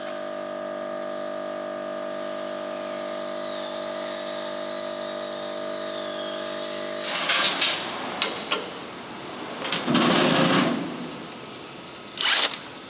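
A steady held tone with many overtones runs for about seven seconds. Then come irregular metal clanks and knocks of shop work, with a loud second-long burst of noise from a tool about ten seconds in.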